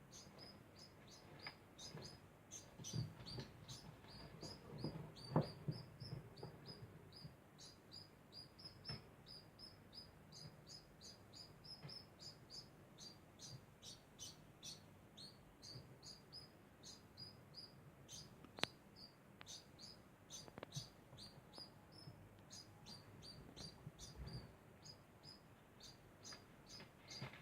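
Degu chirping constantly: a steady series of short, high chirps, about three a second. A few soft knocks come a few seconds in, the loudest about five seconds in.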